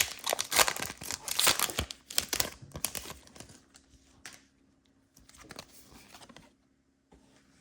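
Foil Pokémon card booster pack wrapper being torn open and crinkled: dense crackling rustle for the first few seconds, then a few softer, scattered rustles.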